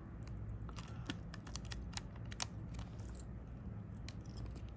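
Faint, irregular light clicks and taps of small hard objects being handled, over a steady low hum.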